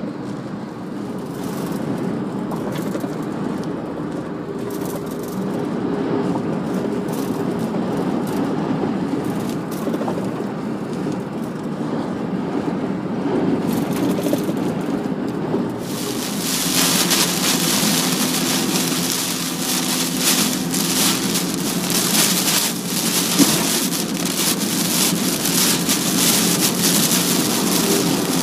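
Car being driven through typhoon rain: steady engine and road noise, then just past halfway a loud hiss of wind-driven rain and spray on the car starts suddenly and keeps surging in gusts.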